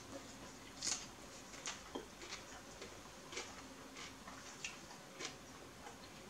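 A person chewing a mouthful of sub sandwich with shredded lettuce, close to the microphone: irregular small crunches and mouth clicks, about one or two a second, the loudest about a second in.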